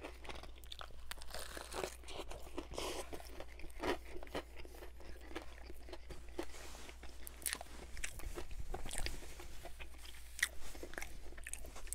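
Close-miked chewing of a crispy battered fried chicken sandwich: irregular crunching of the fried coating, steady all through, with a few louder crunches.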